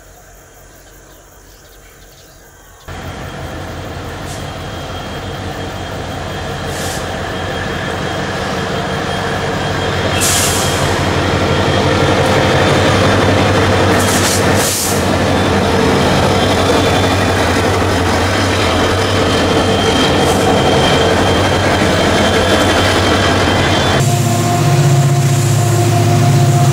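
Diesel-hauled coal train passing close: steady engine drone with the rumble and clatter of wagons on the rails. It starts abruptly about three seconds in, after a quieter stretch, and grows louder. Near the end it switches suddenly to a nearer, deeper locomotive engine note.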